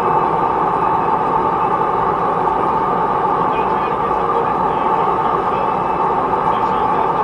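Backyard forge running with a steady, even roar.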